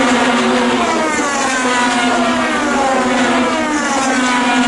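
IndyCar 2.2-litre twin-turbo V6 race-car engines running, several cars going by one after another, each engine note falling in pitch, over a steady engine hum.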